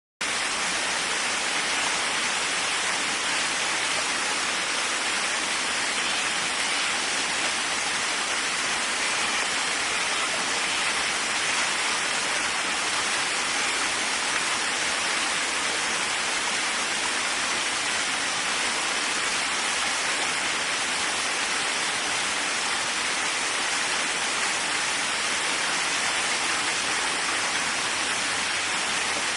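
Waterfall rushing steadily, a constant even hiss of falling water with most of its energy in the upper-middle range. It drops out for a split second at the very start.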